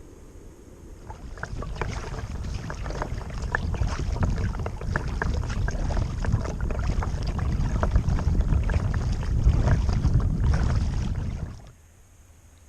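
Kayak moving on the water: splashing and water slapping against the hull, with a low wind rumble on the microphone. It builds up about a second in and stops abruptly near the end.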